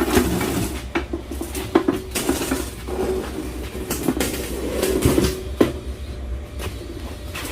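Bricks being handled and set in place on a homemade metal stove: irregular knocks, clinks and scrapes, about eight sharp strikes in all.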